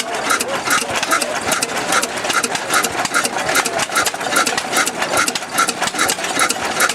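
17 HP Ruston Type CR single-cylinder diesel engine running steadily, with the quick, even clatter of its exposed valve gear and camshaft.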